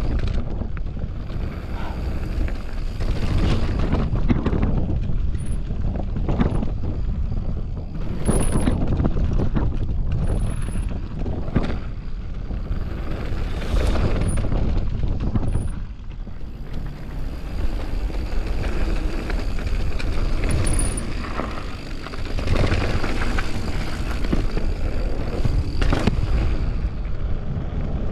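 Mountain bike riding fast down a rough dirt trail: wind rushing over the microphone, with the tyres and frame clattering and knocking over bumps again and again.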